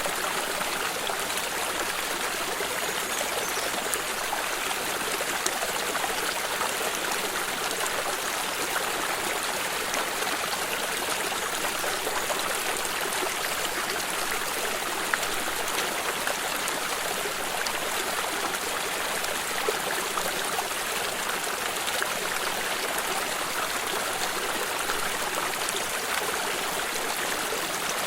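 Stream of water running over stones, a steady, even rush of flowing and trickling water.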